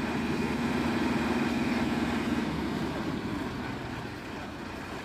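A vehicle engine running steadily. Its hum fades out about two and a half seconds in, leaving a lower, quieter drone.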